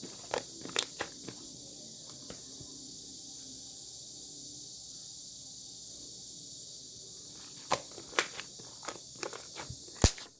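Scattered soft knocks and clicks, a few at the start and a busier run from about three-quarters of the way in with one louder knock near the end, over a steady high hiss.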